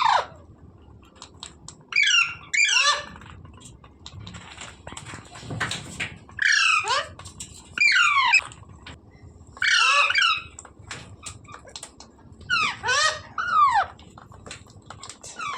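A green ringneck parrot screeching: short, harsh calls, each a quick falling sweep in pitch, given singly and in pairs every second or two.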